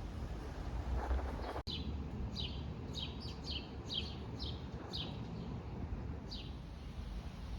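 A bird calling a quick series of short, high, falling chirps, about two a second, starting about two seconds in, over a steady low rumble of wind or handling noise.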